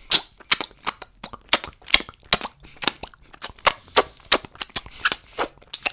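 Crunchy cheese puffs being chewed close to the microphone: a run of sharp, crisp crunches, about three or four a second.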